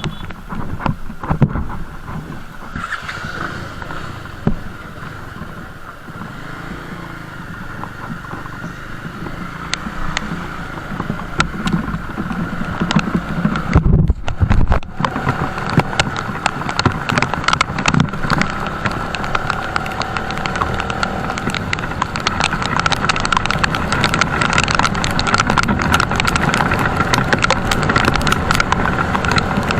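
Motorcycle riding on a road in rain: steady engine and road noise under a dense patter of sharp ticks, getting louder in the second half, with a heavy thump about fourteen seconds in.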